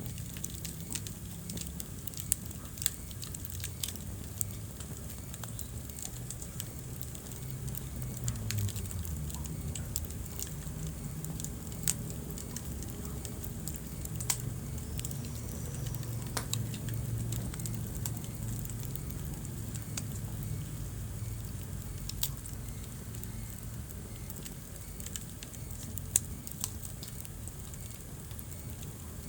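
Wood fire burning in a fireplace: a steady low rumble of flames with irregular crackles and a few sharper pops.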